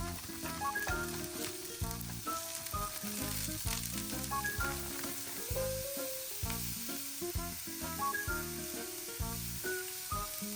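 Food frying and sizzling in a pan, a steady hiss, with background music playing over it.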